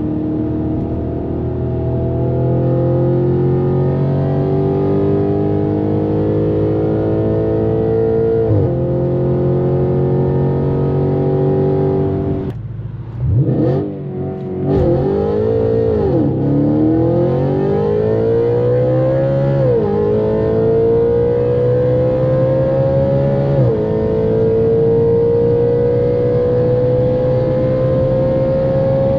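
Audi RS5's straight-piped 4.2-litre V8 pulling hard under acceleration, its note climbing steadily. It upshifts about 8 s in, around 20 s and again near 24 s. Around 13 s the note falls away briefly as the throttle is lifted, then picks straight back up with a quick climb.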